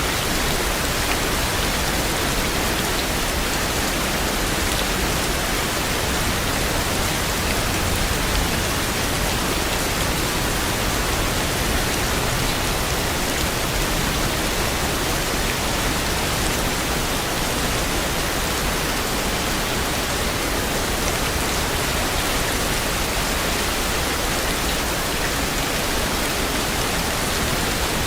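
Steady, even rainfall, a dense hiss of rain on surfaces with faint scattered drop ticks.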